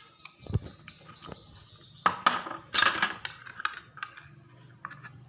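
A bird chirping in a quick run of short high notes, about six a second, for the first two seconds. Then a few short rustles and clicks as chopped ingredients are tipped into a bowl of flour.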